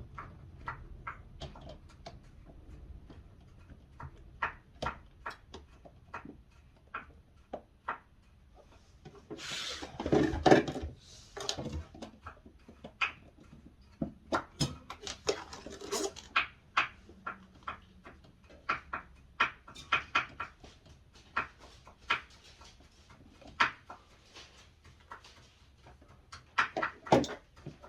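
Irregular light clicks and knocks from handling plastic parts and screws while reassembling a refrigerator's bottom freezer, with a louder scraping stretch about ten seconds in.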